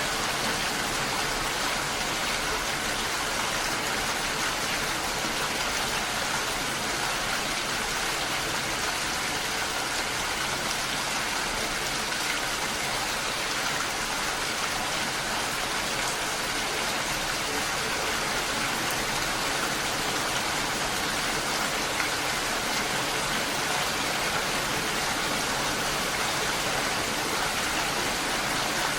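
Steady rainfall, an even hiss of drops with fine patter, unchanging throughout.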